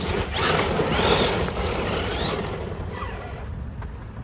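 Losi DBXL-E 2.0 electric 1/5-scale RC buggy running at speed on dirt: its motor and drivetrain whine rises and falls as it passes, over the rush of tyres on loose ground, loudest about a second in and dying away by the middle.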